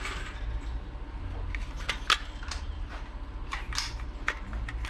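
A handgun being handled: a string of short, sharp mechanical clicks and clacks from the slide and magazine, spaced irregularly, the loudest about two seconds in, over a steady low rumble.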